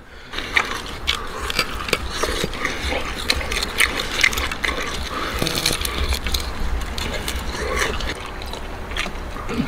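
A man eating charred roast lamb leg off the bone: close chewing and lip-smacking, full of small irregular clicks and smacks.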